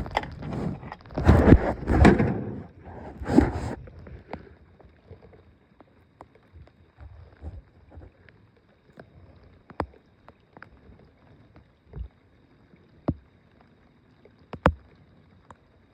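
Close handling noise in a small boat: a few seconds of loud rustling and knocks, then scattered light clicks and taps while fishing tackle is worked on.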